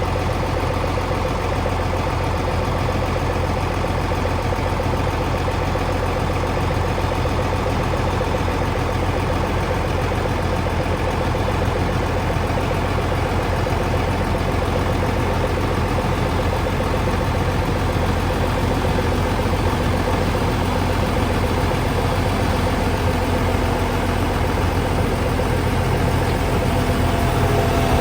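Case IH 180-horsepower tractor engine running steadily under load with a deep, even drone, heard from inside the cab.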